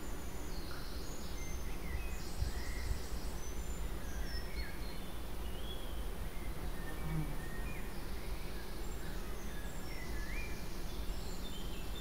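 Birds calling and chirping in short, high gliding notes and a few buzzy trills, over a steady low rumble.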